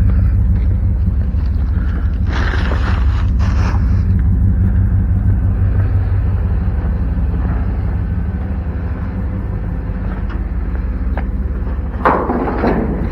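Steady low rumble of an idling engine or machine, with a short scraping rustle about two seconds in and another near the end.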